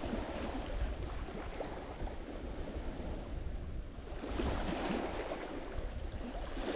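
Lake Michigan waves breaking and washing onto the shore, with a louder wave surging in about four seconds in.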